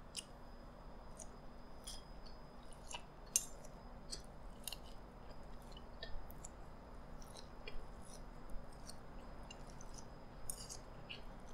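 A person chewing a bite of fried pork chop, with scattered soft mouth clicks and smacks.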